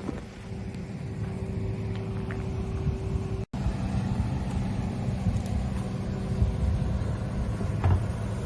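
Yamaha UF-25 boat's engine running steadily at a constant speed, with an even hum over a low rumble. The sound cuts out for an instant a little over three seconds in.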